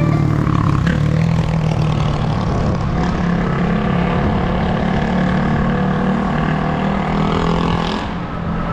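A motor vehicle's engine running with a steady low drone, easing off slightly near the end.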